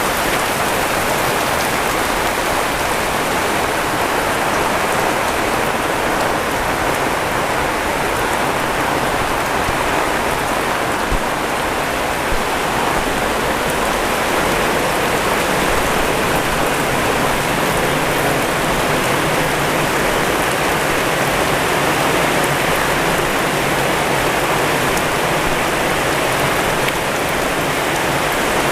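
Heavy rain pouring steadily onto surfaces, a dense even hiss with no letup.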